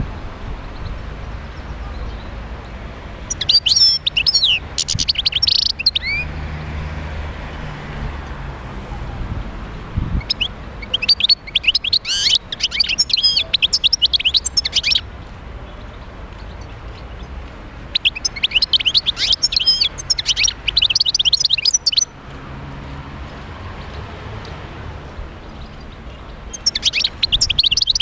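European goldfinch song: four phrases of rapid, jangling twittering, each lasting a few seconds, with short pauses between them, over a steady low hum.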